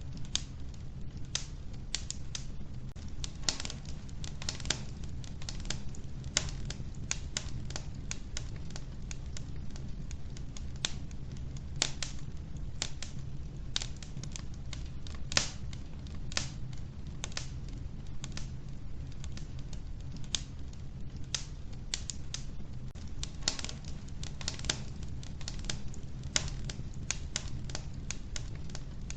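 Wood fire crackling in a wood-burning stove: irregular sharp cracks and pops from the burning logs, a few of them louder, over a steady low background.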